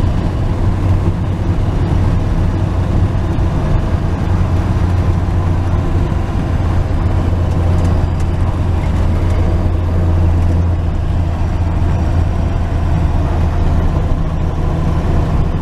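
A 1949 Chevy truck's engine running at a steady cruise with road noise, heard from inside the cab: a continuous low drone that holds even throughout.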